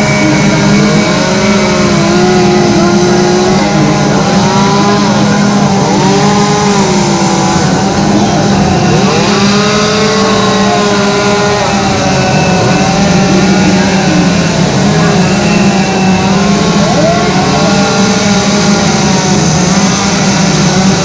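Several chainsaws running at once while carving wood, their engine pitch rising and falling as the saws are revved into and out of cuts over a steady low drone.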